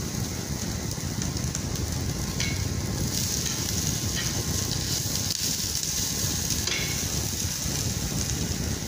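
Potato chips, onion and sliced sausage sizzling steadily in oil in a frying pan, with a few faint ticks.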